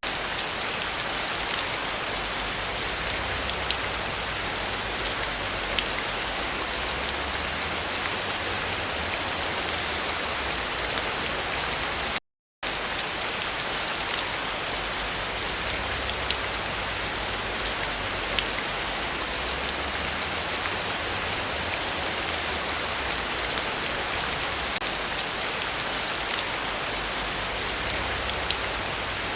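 Heavy rain falling steadily, a dense, even hiss of drops with many small patters. The sound cuts out completely for a split second about twelve seconds in, then resumes unchanged.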